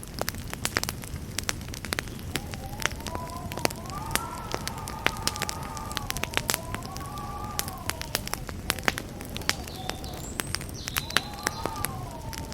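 Wood campfire burning steadily, with dense sharp crackles and snaps over a low rumble of flame. A faint wavering whistle rises and falls in pitch through much of it.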